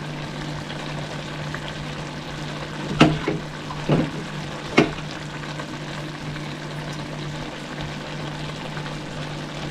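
Cauliflower, potato and carrot curry sizzling in a pan on the stove, over a steady low hum. Three sharp knocks about three, four and five seconds in, the first the loudest.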